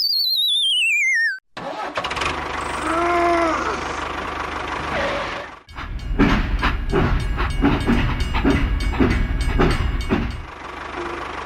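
A falling whistle tone. Then a small engine or motor runs, with a rhythmic knocking at roughly three to four beats a second in the second half.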